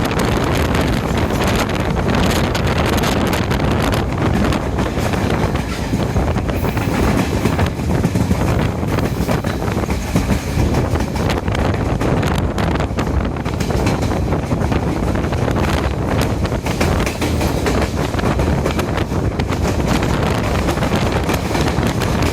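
Diesel multiple-unit intercity express train running at speed: a steady rumble of wheels on the track with faint clicking. Wind buffets the microphone.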